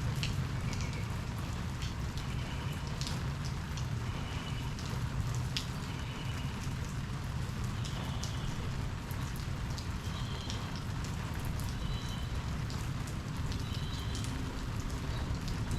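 Steady rain falling in a thunderstorm, with a low steady rumble under it and short high chirps scattered over it.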